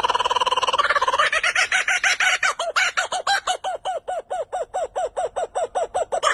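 A bird calling: about a second of continuous chattering, then a fast, even run of repeated short call notes, about five a second.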